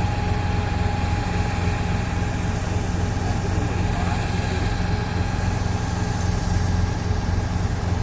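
Heavy engine running steadily at idle, a constant low drone with a thin steady hum above it.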